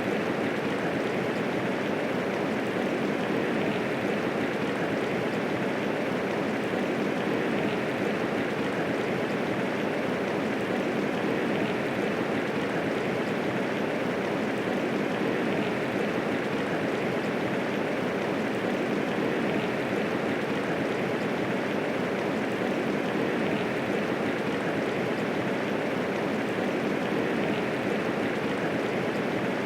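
Steady medium rainfall, an even unbroken hiss of falling rain with no thunder.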